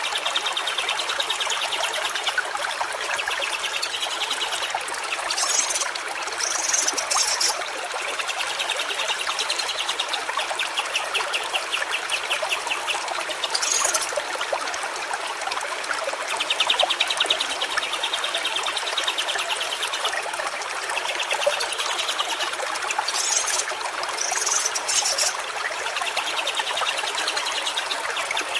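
A stream trickling steadily, with bird calls over it: rapid trills repeating every few seconds and a few short high chirps.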